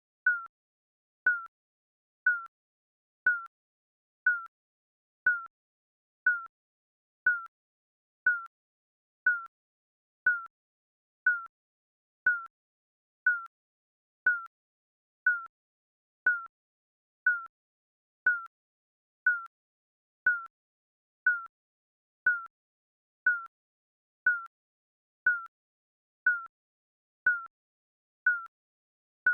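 Digital countdown timer beeping: one short, high electronic beep every second, each dipping slightly in pitch.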